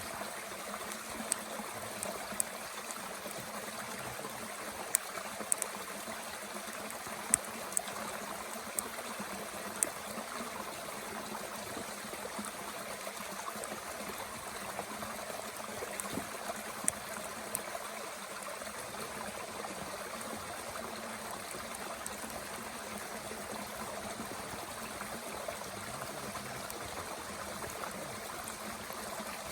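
A mountain stream running steadily, with sharp pops and crackles from wood burning in a small Bushbox camp stove, several in the first ten seconds and a few more about sixteen seconds in.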